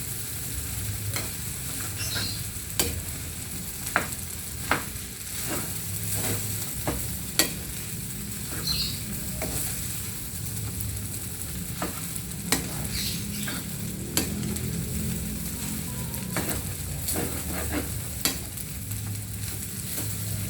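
Food sizzling and frying in a pan while it is stirred, with a sharp knock or scrape of the spatula against the pan every few seconds.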